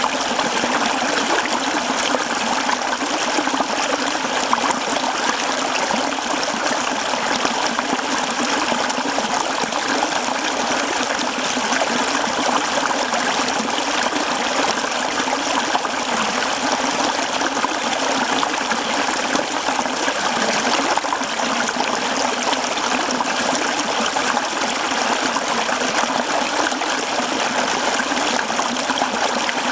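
Mountain stream flowing over rocks, a steady rushing and trickling of water.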